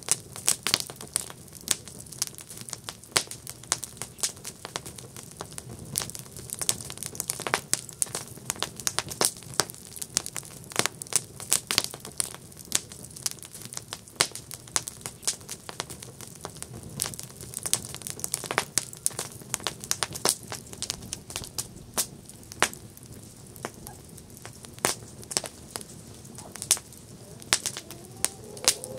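Wood campfire crackling and popping, with many sharp irregular snaps over a soft steady hiss of burning.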